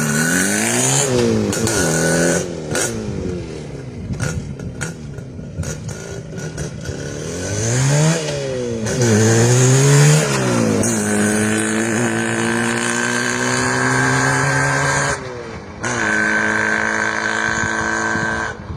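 Izh Jupiter 5 motorcycle's two-stroke twin engine revving hard, its pitch swooping up and down several times and then climbing steadily under acceleration. The engine note breaks off briefly about fifteen seconds in and picks up again higher.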